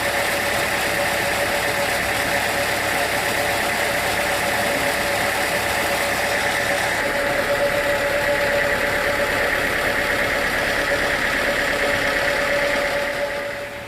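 Sawmill machinery running steadily, with a constant high whine over the motor noise; it falls away shortly before the end.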